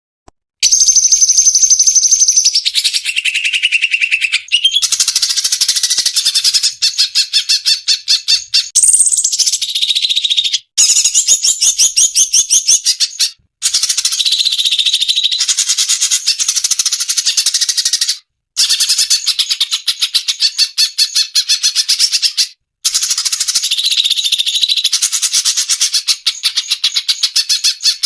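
Cucak cungkok bird song: loud, rapid chattering trills mixed with whistled notes, in long phrases broken by brief pauses every few seconds.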